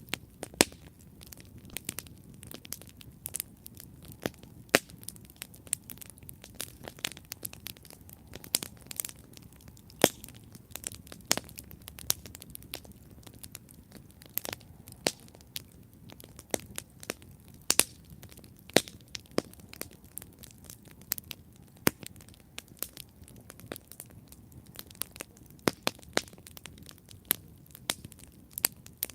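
Campfire burning with irregular sharp wood crackles and pops over a low, steady rush of flame.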